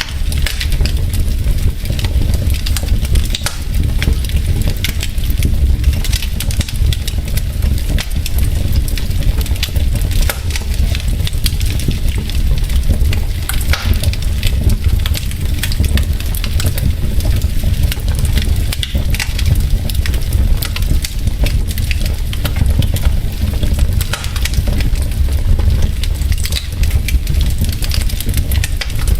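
Wood logs burning in a fireplace, crackling with a dense run of sharp pops over a steady low rumble.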